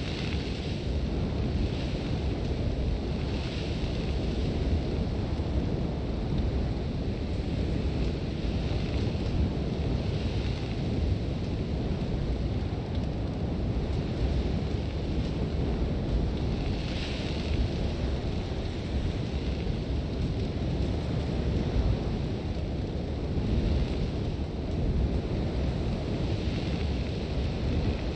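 Sandstorm wind with a steady low rumble of gusts buffeting the microphone, and blown sand hissing in swells that come and go every second or two.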